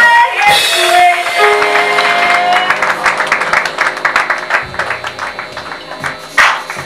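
Church worship music at the end of a song: the singers' held note breaks off, a few instrument notes sound on, and the congregation claps, the applause thinning out and fading.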